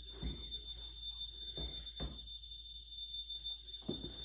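Footsteps, a few soft low thumps, over a steady high-pitched electronic tone.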